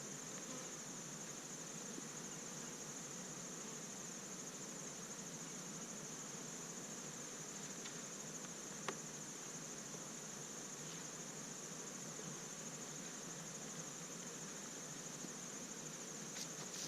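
Honey bees humming around an open hive, under a steady high-pitched insect trill, with one light click about nine seconds in.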